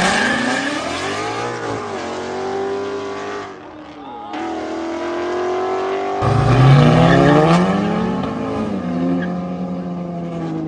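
Race car engines revving hard as cars accelerate and pass, their pitch rising and then falling away. About six seconds in, another car comes in loud and accelerates with a rising pitch.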